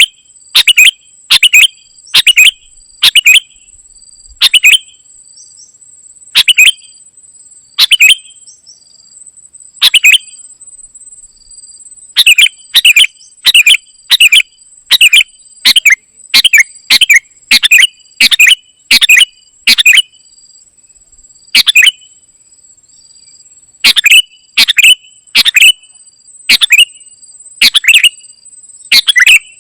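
Kutilang emas bulbul calling: short, sharp, very loud chirps repeated in irregular runs of about one to two a second, with brief pauses between runs. A faint steady high whine sits beneath the calls.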